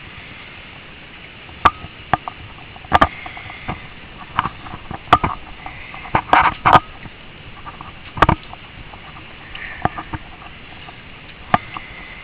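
Irregular sharp taps and clicks, about a dozen, some in quick clusters near the middle, over a steady hiss.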